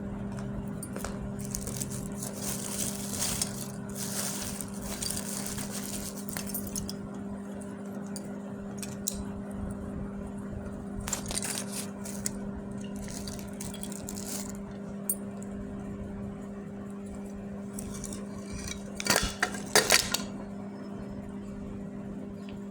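Dry clay crunching and crumbling in irregular bursts of crackling, with the loudest, sharpest crunches a few seconds before the end. A steady low hum runs underneath.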